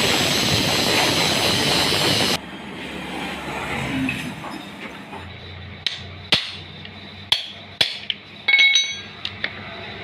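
Hammer blows on metal during a repair: a loud steady rushing noise cuts off suddenly, then four sharp separate strikes follow, and a quick cluster of ringing metallic clinks near the end.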